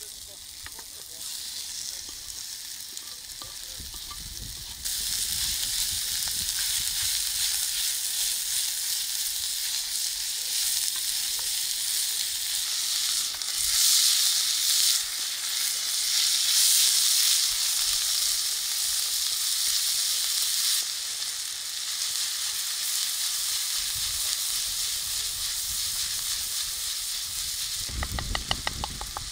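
Minced meat and onions sizzling in a black frying pan over hot charcoal, stirred with a wooden spatula. The sizzle steps up suddenly about five seconds in, is loudest around the middle and eases a little later on.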